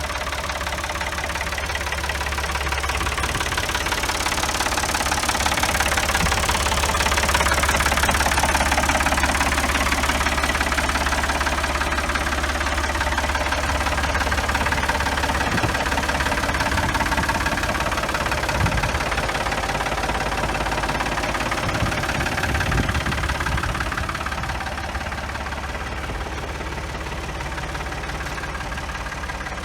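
1980 Ford 4100 tractor engine running steadily. It grows a little louder over the first several seconds and eases off again near the end.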